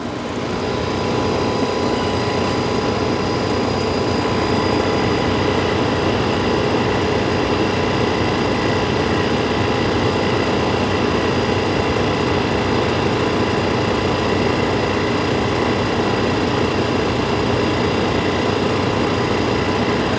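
1971 Philco Ford window air conditioner running with its cover off, compressor and blower going: a steady hum with a few steady tones over the rush of air. It comes up in level about a second in and then holds steady. The compressor is running on its newly fitted hard start kit and the unit is blowing cold.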